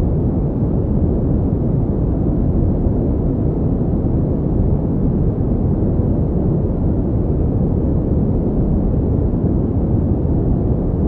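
Steady pink noise: an even, deep rushing hiss that holds the same level throughout, with no tones or events.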